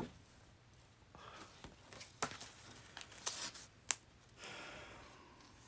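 Paper rustling and crinkling, with scattered light clicks, as handwritten get-well letters are handled and turned over.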